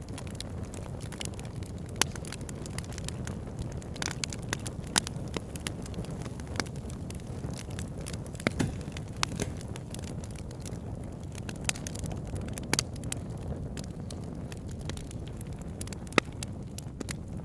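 Wood fire burning: a steady low rush with frequent irregular crackles and pops, and a few sharper snaps.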